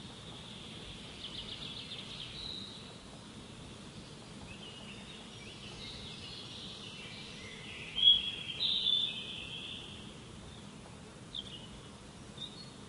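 Wild birds chirping and singing: short trills and chirps over a steady outdoor hiss, with the loudest cluster of calls about eight seconds in.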